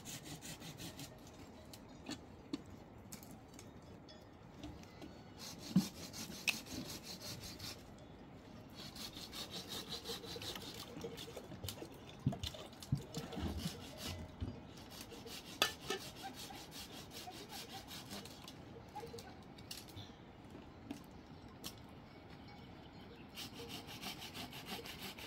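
Repeated rubbing or scraping strokes in a steady rhythm, with a few sharp knocks along the way.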